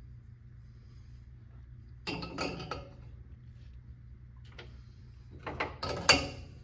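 Clattering and knocking of things being handled, in two bursts about two seconds in and around five to six seconds in, the last knock the loudest, over a steady low hum.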